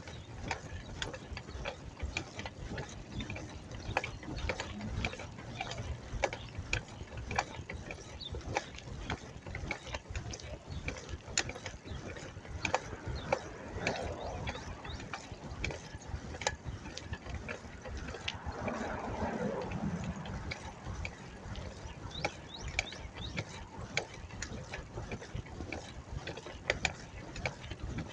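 Bicycle freewheel ticking rapidly as the bike coasts, with a brief louder swell of other noise about two-thirds of the way through.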